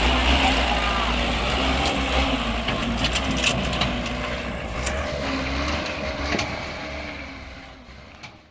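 Vehicle driving noise from a dashcam: a steady low rumble with a faint hum, broken by several sharp knocks, then fading out near the end.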